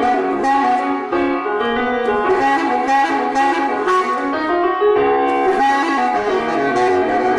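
Saxophone playing a melodic line over instrumental accompaniment, notes changing quickly and continuously.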